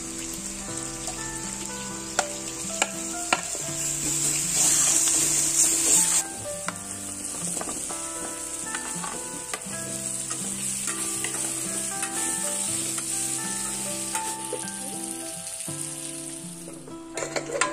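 Onions, green chillies and spices sizzling in hot oil in a kadhai while being stirred, with a louder spell of sizzling about five seconds in and a few sharp clicks a little before it. Soft background music plays throughout.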